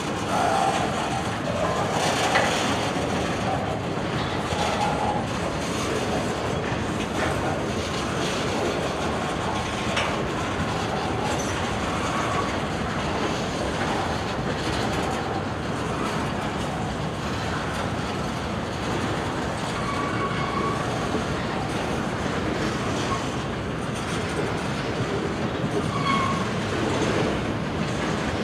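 Freight train cars rolling past, a steady rumble of wheels on rail with clacks over the joints and a few short wheel squeals about halfway through and near the end.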